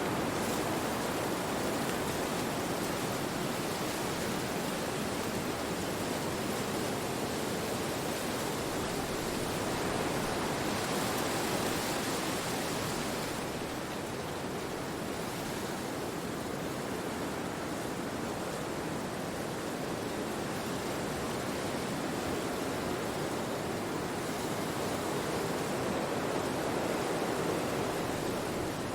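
Wind blowing through forest trees: a steady rushing that swells and eases slowly.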